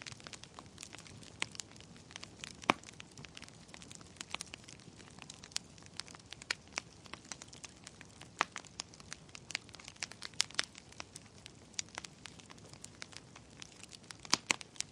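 Wood fire crackling in a fireplace: irregular pops and snaps over a soft hiss, with the sharpest pop about three seconds in and two more close together near the end.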